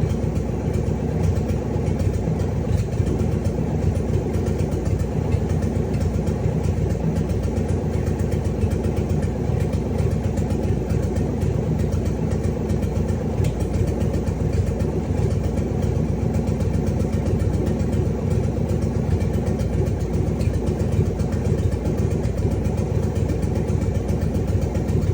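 Freshly rebuilt Cadillac 500 cubic-inch V8 idling steadily after its first startup.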